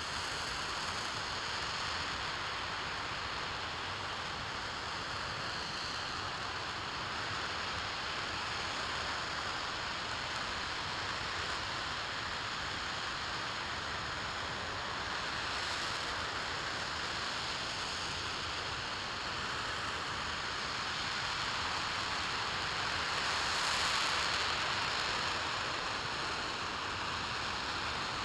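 RS-25 liquid-hydrogen/liquid-oxygen rocket engine firing on a test stand: a steady, even roar of noise that swells a little about four seconds before the end.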